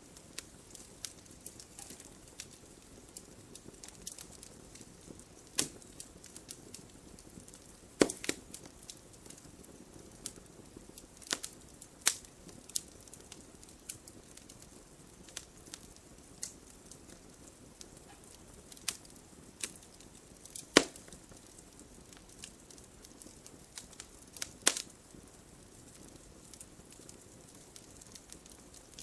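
Wood campfire burning: a low steady hiss of flames with scattered sharp pops and crackles, several loud snaps standing out.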